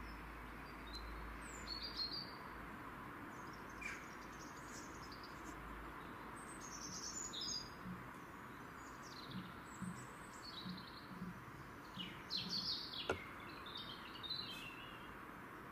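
Small birds chirping and singing repeatedly over a steady hiss of outdoor ambient noise, with one sharp click about thirteen seconds in.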